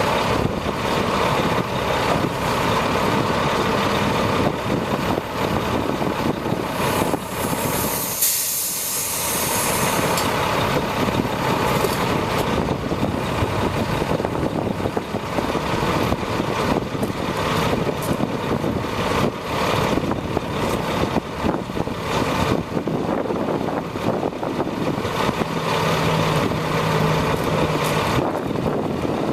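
Heavy truck diesel engine running steadily, with a burst of air hiss about eight seconds in, like an air brake release.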